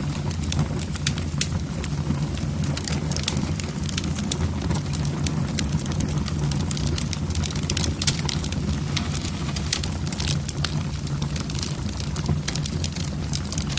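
Wood fire burning in a fireplace, the logs crackling with a dense run of sharp pops over a steady low rumble.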